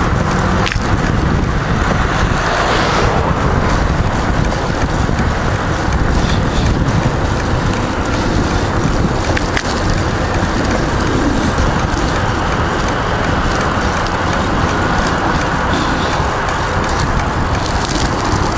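Steady wind noise on the microphone mixed with tyre and road noise from a bicycle being ridden.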